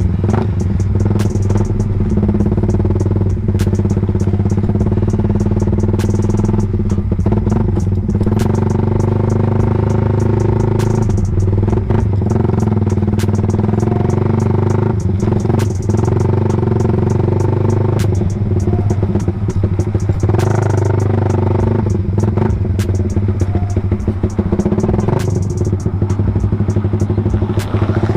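Suzuki Raider 150 Fi's single-cylinder four-stroke engine running steadily at low revs through an open CHA exhaust pipe, loud and burbling, with frequent sharp crackles.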